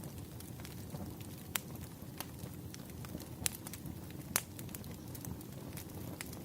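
Firewood burning: a steady low rumble of flames with scattered sharp crackling pops, the loudest about three and a half and four and a half seconds in.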